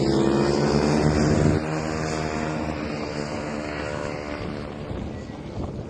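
Small single-cylinder 110cc mini-bike engines running hard, their note climbing before it cuts off abruptly about a second and a half in. The engine sound then fades steadily away.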